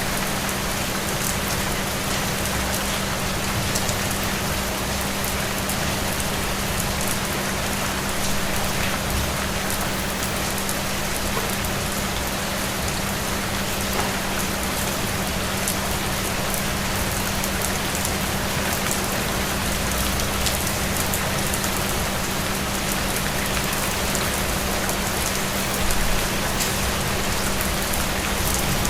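Steady rain falling on a surface, an even continuous hiss with fine scattered drop ticks, over a steady low hum.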